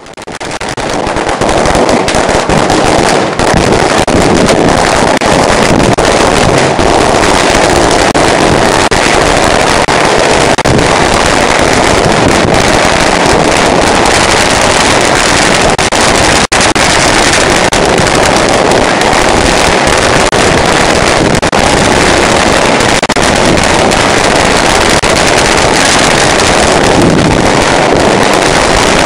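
A long string of Chinese firecrackers going off in one continuous rapid crackle of bangs, with a momentary break a little past halfway.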